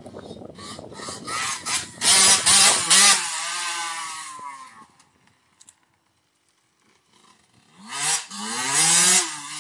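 Motorbike engine revving hard about two seconds in, its note then dropping away as the bike moves off. After a short silence it comes back loud, its pitch rising and falling as it passes close.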